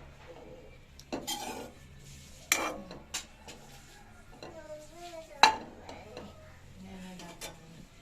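A metal utensil stirring and knocking in a cooking pan, with several sharp clinks; the loudest clink comes about five and a half seconds in.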